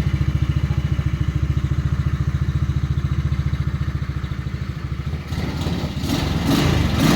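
Go-kart's small engine running just after a cold start, with an even, rapid firing pulse. A little past five seconds in, it gets louder and rougher, with clattery noise near the end.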